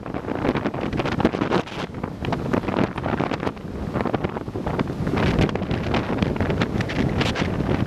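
Strong gusting wind buffeting the microphone, a continuous rumbling roar with rapid irregular gust blasts.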